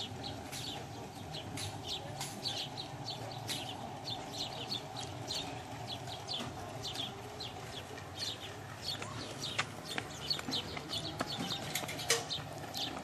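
Small birds chirping over and over in quick, short calls, over a steady low outdoor hum, with a few sharp clicks near the end.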